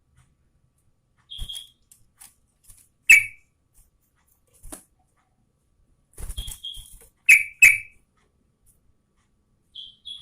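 Yellow-vented bulbul (trucukan) giving short, sharp chirping calls at irregular intervals, with a brief chattering cluster a little past the middle and two loud notes just after it.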